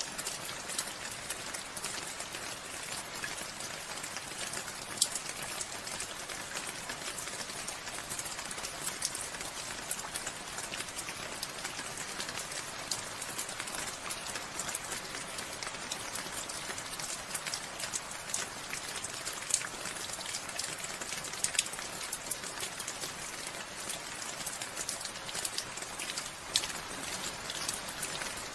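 Steady rain falling, a continuous hiss of rainfall with scattered sharp taps of individual drops striking nearby surfaces, a few of them louder.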